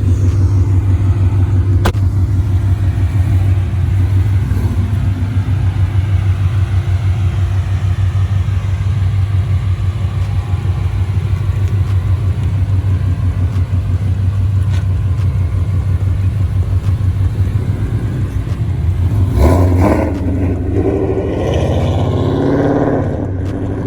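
Exhaust rumble of a 2015 Mustang GT's 5.0 V8 running through catless long-tube headers, an H-pipe and Roush axle-back mufflers: a steady, deep, pulsing drone. About twenty seconds in it grows brighter and louder for a few seconds.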